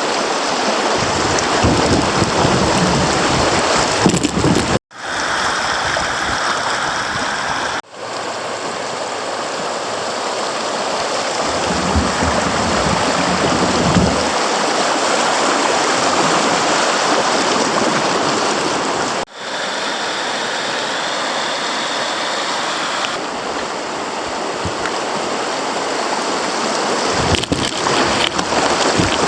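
Creek water running over shallow riffles, a steady rushing noise that cuts out and resumes abruptly three times.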